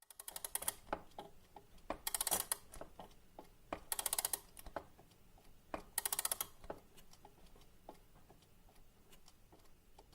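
Scattered clicks and four short bursts of rapid, rattling clicks, about two seconds apart, growing sparser and fainter toward the end.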